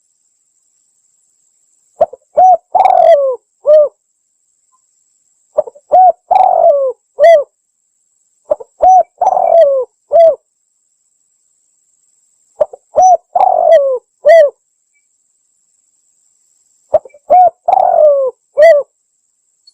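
Spotted dove (tekukur) cooing: five phrases of several short coos each, about one every three to four seconds, with silence between. It is a recorded call used as a lure to draw in wild doves.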